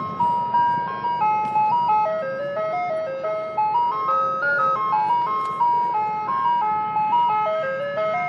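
Ice-cream truck jingle: a chiming tune of quick struck notes, each fading, stepping up and down in pitch over a steady held tone.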